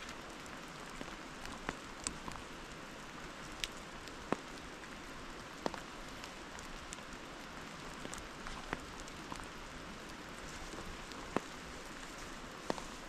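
Steady rain falling, an even hiss broken by scattered sharp ticks.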